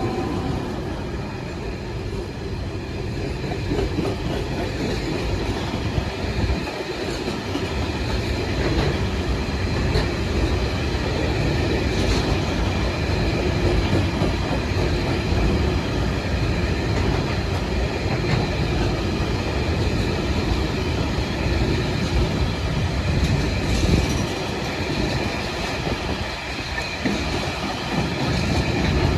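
Freight train passing: its wagons roll by on the rails with a continuous rumble and a clickety-clack over the rail joints.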